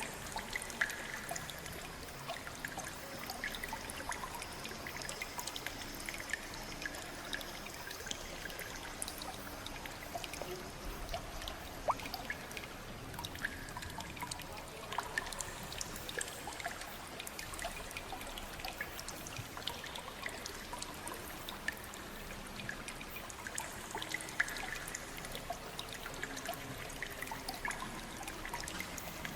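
Water trickling and pouring steadily, with many small drips and splashes scattered through it.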